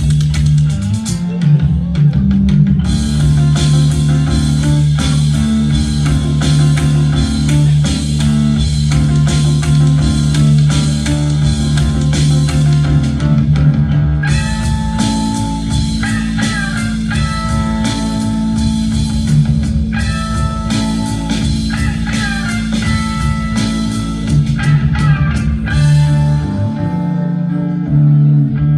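Band music: guitar over bass guitar and drum kit, with no singing. From about fourteen seconds in, a guitar plays a melodic lead line.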